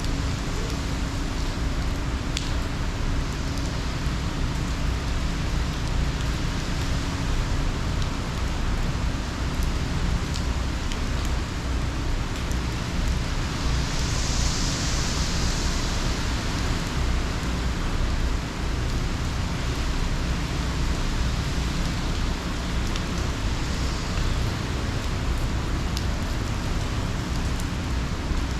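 Hurricane rain and wind, a steady rushing hiss over a low rumble, swelling into a brighter hiss for a couple of seconds about halfway through.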